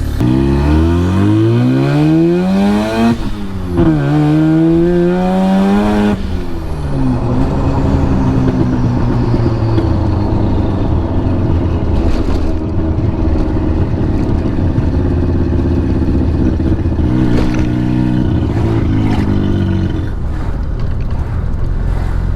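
Mazda RX-7's turbocharged 13B twin-rotor rotary engine under hard acceleration, its pitch rising steeply, dropping at a gear change about three seconds in, then climbing again. Around six seconds in the driver lifts off and the engine settles into a steady cruising note.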